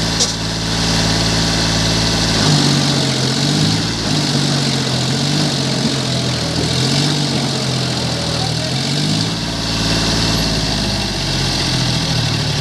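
John Deere tractor engine running steadily, then from about two and a half seconds in its pitch rises and falls again and again as the engine speed changes. A single sharp click sounds right at the start.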